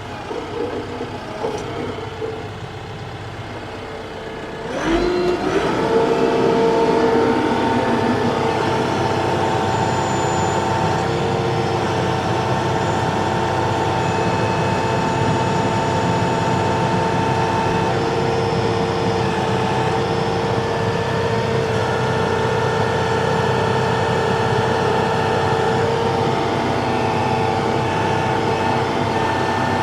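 Tractor diesel engine running, then throttled up about five seconds in with a short rise in pitch, and held steady and louder at working speed, as if driving the flail mower.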